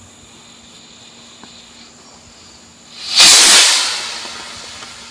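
Black powder rocket motor igniting about three seconds in with a sudden loud hiss that fades over the next two seconds as the rocket climbs away.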